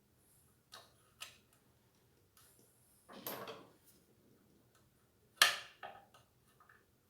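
Handling noises from assembling a ceiling fan: a couple of light clicks, a short scrape, then one sharp knock about five seconds in, followed by a few faint clicks.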